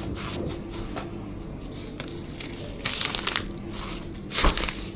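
Plastic packaging crinkling and rustling in two short bursts, about three seconds in and again near the end, over a steady low hum.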